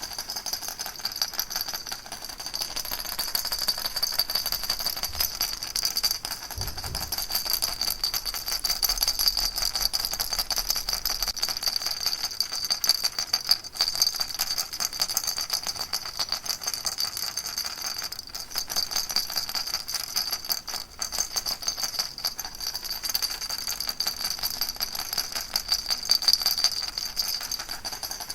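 Baby rattle shaken steadily and rapidly, a continuous, dense rattling with a bright, high edge.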